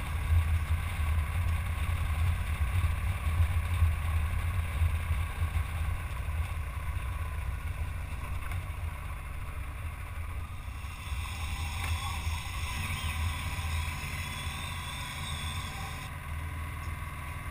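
Motorcycle riding on the road: a steady low rumble of engine and wind noise. It eases slightly about a third of the way through.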